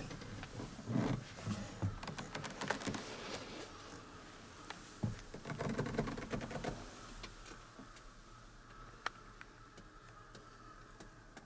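Scattered light clicks and knocks with a few low thuds, busier in the first half and sparser later: handling noise inside a truck cab.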